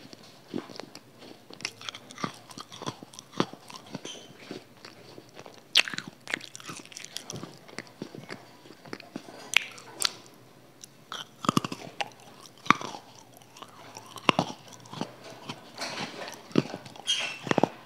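Close-miked eating: crisp bites and crunchy chewing of a thin brown disc-shaped snack, sharp irregular crunches with several louder bites in the middle.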